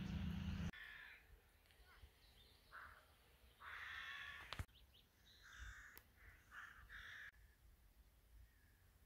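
Birds calling several times, the longest and loudest call about four seconds in and lasting about a second. A low rumble runs for the first moment and stops abruptly under a second in.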